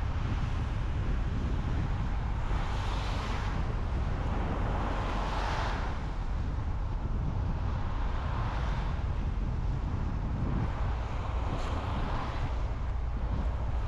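A car driving on the road: steady low road and tyre rumble, with hissing whooshes that swell and fade four or five times, like traffic passing.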